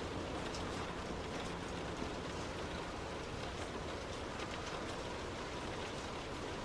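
Heavy rain falling on a moving car: a steady hiss with scattered drop hits over low road and engine rumble.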